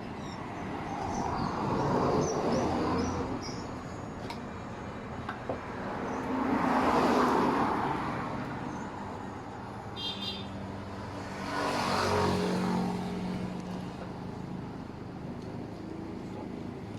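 Road traffic passing: three vehicles go by one after another, each swelling and fading over two to three seconds. The last one, about twelve seconds in, carries a low engine hum.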